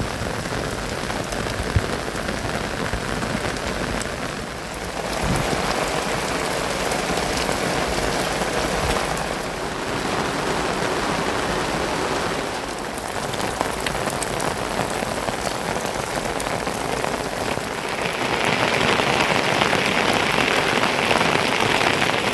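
Heavy monsoon rain falling steadily, growing louder and hissier near the end.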